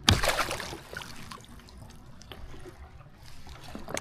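A sudden splash of water close to the microphone just after the start, then quieter trickling and lapping water around the kayak.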